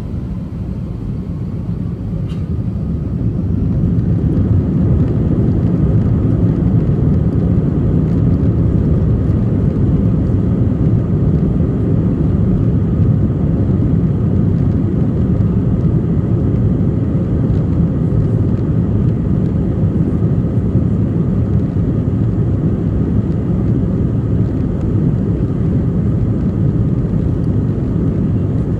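Airliner jet engines rising in loudness over the first few seconds as they spool up to takeoff thrust. Then a steady, loud low rumble of the takeoff run, with a faint steady whine above it.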